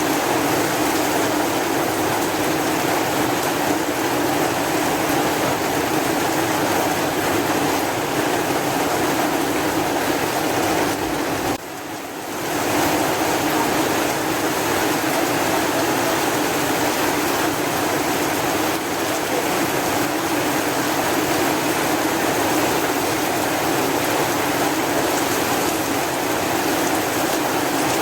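Steady, dense rainfall hiss. It briefly drops away for about a second near the middle, then returns.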